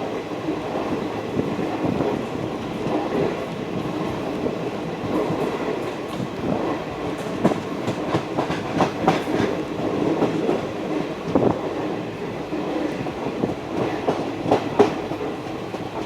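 Raptiganga Express passenger train running at speed, its wheels clattering over the rail joints in a steady rumble broken by many sharp clicks, thickest in the middle of the stretch.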